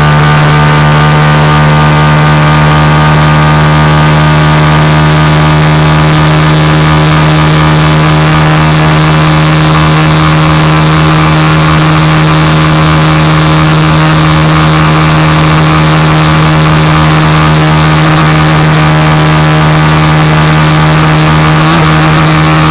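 150 cc single-cylinder motorcycle engine running loud and held at steady revs, one unchanging engine note throughout.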